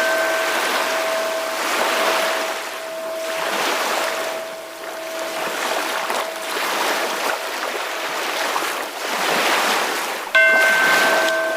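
Ocean waves washing in and drawing back, swelling and fading every couple of seconds. A ringing bell-like tone fades away over the first half and is struck again about ten seconds in, lingering.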